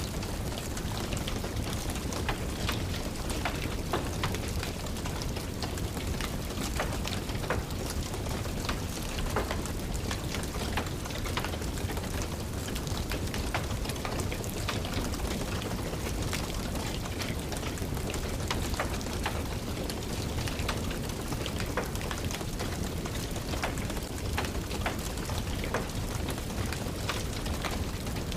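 Steady rain with a crackling wood fire: a constant wash of rain noise scattered with many small, irregular pops and crackles.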